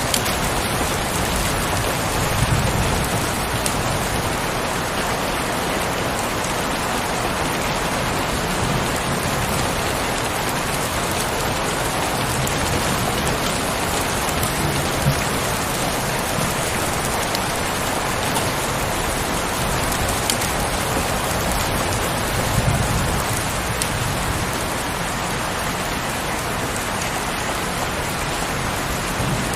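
Heavy rain falling steadily, a dense even hiss of drops, with a couple of brief low swells and the odd louder drop hit.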